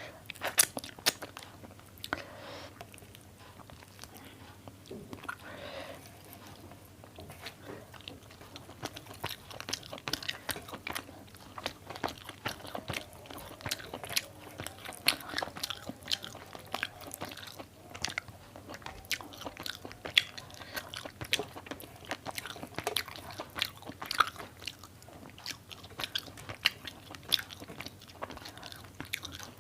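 Close-miked chewing and mouth sounds of a person eating a home-cooked rice meal: a steady run of many small sharp clicks and bites.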